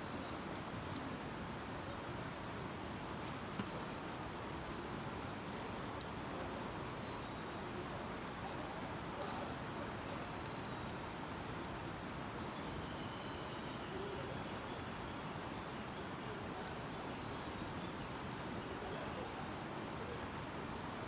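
Wood campfire crackling with a few sharp pops, one louder about three and a half seconds in, over a steady rushing noise like a flowing stream.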